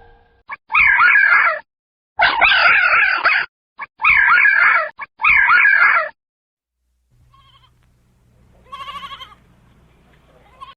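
Sheep bleating: four loud, quavering bleats in quick succession, then a pause and a fainter bleat near the end.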